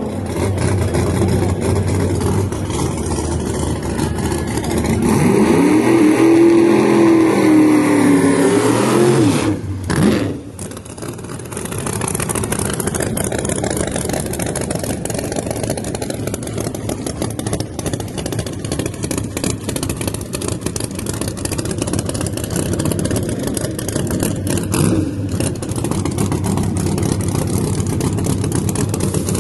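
Drag car engine revving, rising in pitch to its loudest about six to nine seconds in, then falling away and dropping off sharply near ten seconds; a steadier engine note follows.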